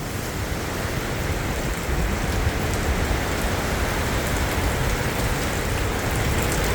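Heavy rain and wind from the storm around an approaching tornado, a steady rushing noise with a low rumble of wind on the microphone.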